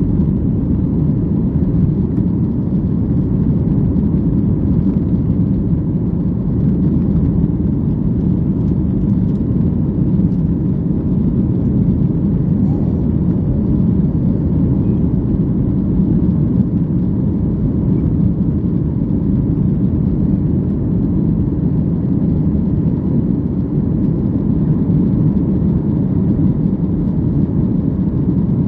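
Boeing 737-800's CFM56 jet engines and airflow heard inside the cabin: a steady, loud low rumble that holds level throughout.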